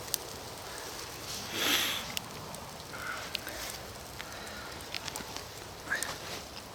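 Campfire crackling, with scattered sharp pops over a steady hiss and a brief louder rush of noise a couple of seconds in.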